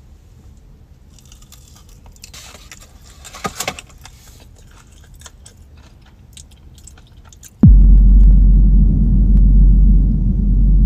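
Biting into and chewing a crunchy spice-coated piece of food, with a few soft crunches and clicks. About three-quarters of the way in, a sudden loud, deep, steady rumble cuts in and holds.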